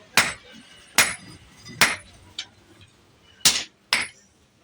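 Hammer blows on steel at irregular intervals: five sharp, ringing strikes and one light tap, as a plough part is hammered straight.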